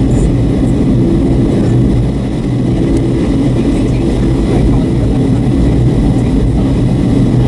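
Cabin noise inside a Boeing 757-300 in flight: a steady low rumble of engines and airflow, with a constant low hum.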